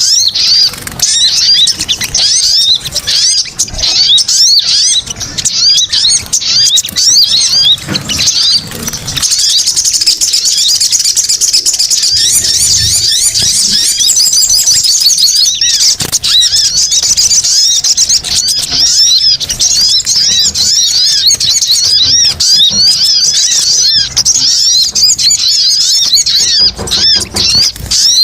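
Dense, unbroken chattering of many small birds, rapid high arched chirps overlapping one another, played as a lure call to draw small birds in. About a third of the way in, a higher, busier layer of chirps joins.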